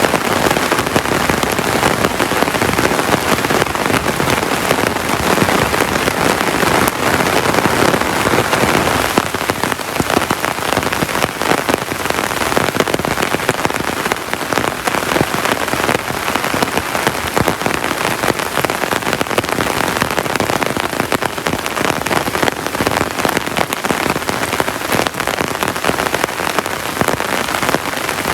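Heavy rain falling steadily, a dense spread of many close drop impacts on a surface.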